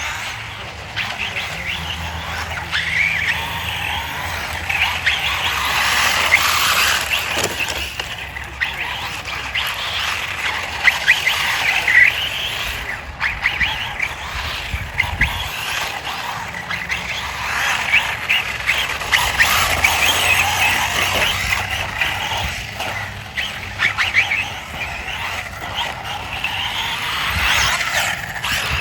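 Radio-controlled car driving, its electric motor and tyre noise swelling and fading: loudest about six seconds in and again around twenty seconds in.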